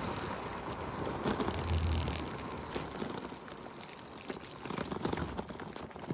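Wind rushing over the microphone while moving, with scattered small knocks and a low thump about two seconds in, fading toward the end.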